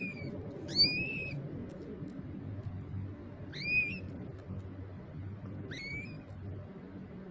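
A small animal's high-pitched call, heard three times about two and a half seconds apart. Each call rises quickly and then holds its pitch for about half a second. A faint steady low hum runs underneath.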